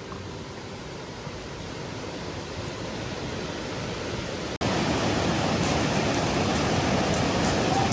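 A river's water rushing steadily, slowly growing louder. A little past halfway it breaks off sharply for an instant and comes back louder.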